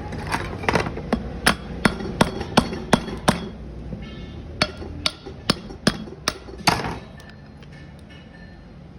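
Hammer striking metal: a quick run of sharp blows, about two or three a second, with a short pause midway before they stop.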